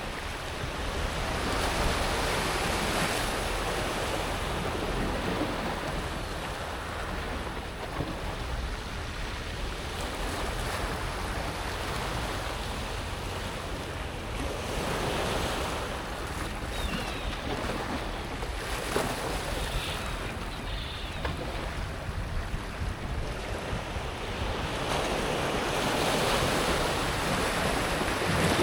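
Small sea waves breaking and washing back over a pebble beach: a continuous hiss of water and rolling stones that swells three times, roughly ten seconds apart. A low wind rumble on the microphone runs under it.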